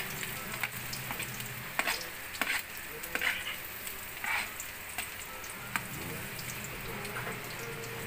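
Chopped food frying in oil in a metal wok, a steady sizzle, with a spatula scraping and knocking against the pan every second or so as it is stirred.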